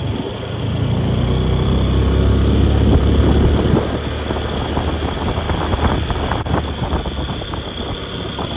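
A vehicle engine running on the move, with wind and road noise; it swells louder from about a second in and eases off around four seconds.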